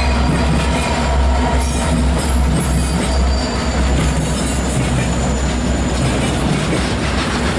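Freight train passing close by: the trailing diesel locomotives rumble past, then freight cars roll by on the rails. The deep engine rumble thins out about halfway through, leaving wheel and rail noise.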